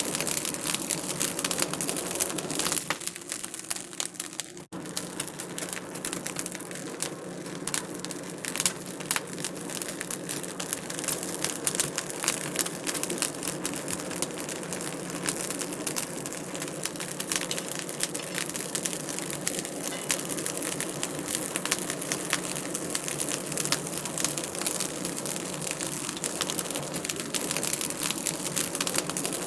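Wood fire crackling, a dense run of small irregular pops over a low steady hum. The sound briefly cuts out about four and a half seconds in.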